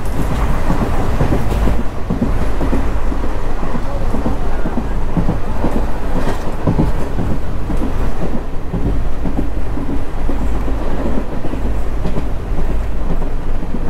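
Passenger train running along the line, heard from on board: a loud, steady rumble of wheels on the rails with irregular rattling clatter throughout.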